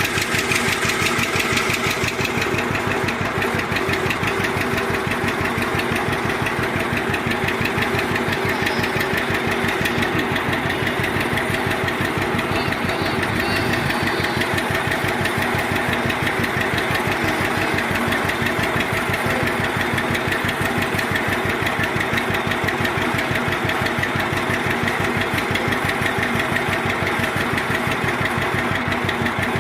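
Antique tractor engine running steadily at low speed, with an even, rapid beat of firing strokes.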